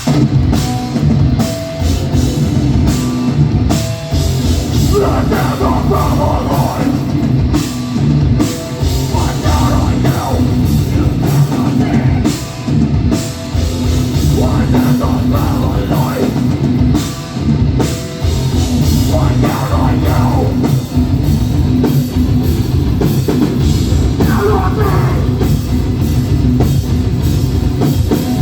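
A heavy rock band playing loud and live, with drum kit and distorted guitars, all kicking in together at the start.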